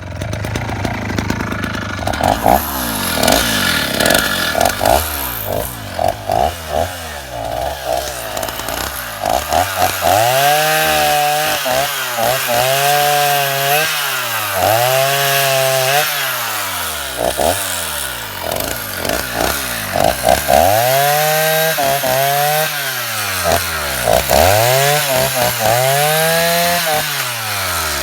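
A cheap Chinese 50–52cc two-stroke chainsaw running loud, its engine note climbing and dropping over and over, about every couple of seconds, for most of the time.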